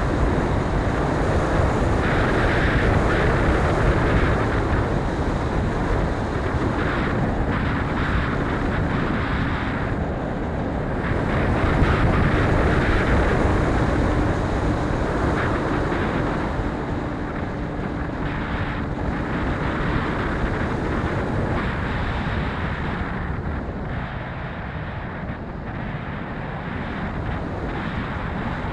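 Strong wind buffeting the microphone, a steady rushing noise that swells and eases in gusts.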